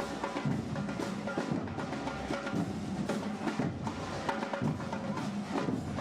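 Parade marching band drums playing a steady, even beat, with a few held pitched notes above the drumming.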